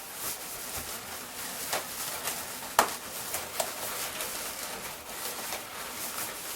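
Inflated latex balloons rubbing and squeaking against each other as a small round-balloon duplet is twisted into a cluster, with irregular crackles and one sharp click about three seconds in.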